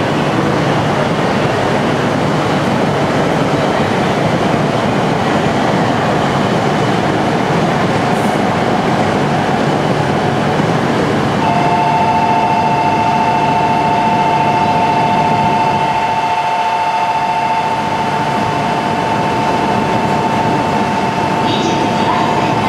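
E3-series Shinkansen coupled to an E5 standing at the platform with its onboard equipment running: a loud, steady hiss and hum. About halfway through, a steady two-tone electronic signal starts and holds.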